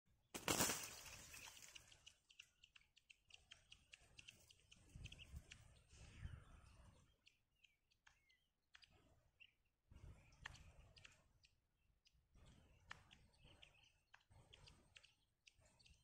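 Faint short bird chirps among scattered clicks and rustles, with a sharp burst of noise about half a second in.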